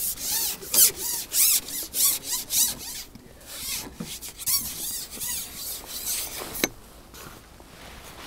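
Rubbing, squeaking strokes about every half second at first, then quieter handling and one sharp click.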